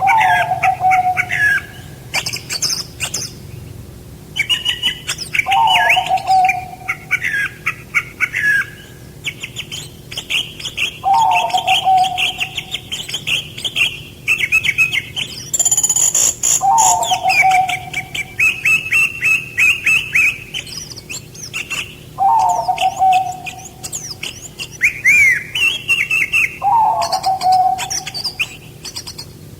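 Several songbirds chirping and trilling at once, with a lower call falling in pitch that comes back about every five to six seconds.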